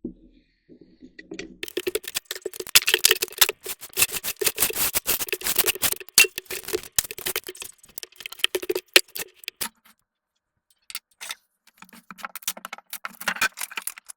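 Dense clatter of small cracks and knocks, dry-rotted wood being broken up and pulled out; it stops about ten seconds in and starts again near the end.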